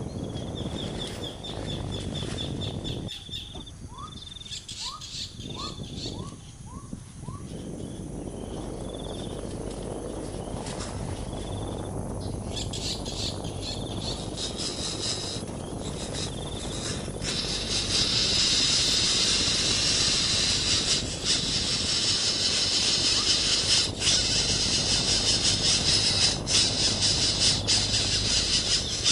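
Outdoor animal calls: a rapid high trill, then a few short rising chirps, then from about seventeen seconds a loud, steady high-pitched shrilling.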